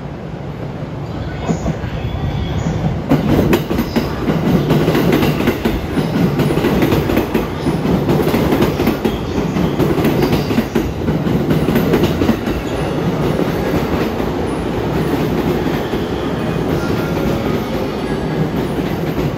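JR East E231 series 1000 electric commuter train running into a station platform and slowing, its wheels clattering over the rail joints. The sound swells about three seconds in as the cars pass close by, then eases somewhat.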